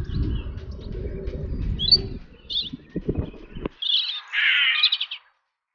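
Birds chirping over a low rumbling noise, with a few clicks about three seconds in, then one louder, rapidly pulsing bird call lasting about a second before the sound cuts off.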